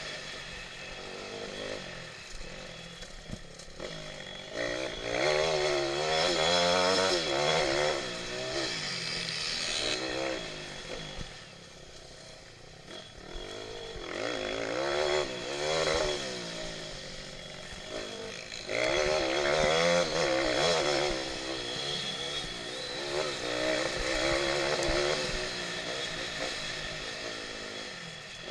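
Pit bike engines revving hard in repeated surges, their pitch climbing and dropping as the throttle is worked through the race.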